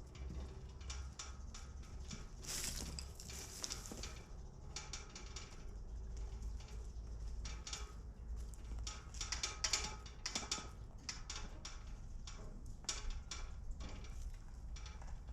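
Chickens pecking and scratching in a coop: irregular taps, scratches and rustles, thicker in two spells, over a low steady hum.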